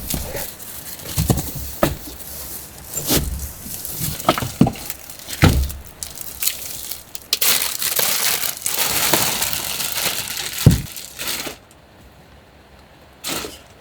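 Crinkling and rustling with irregular knocks and clicks. The rustling stops sharply about two seconds before the end, and one short rustle follows near the end.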